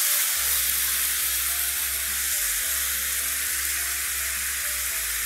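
Onion, chilli, capsicum and tomato masala sizzling in hot oil in a non-stick frying pan as it is stirred with a silicone spatula: a steady hiss.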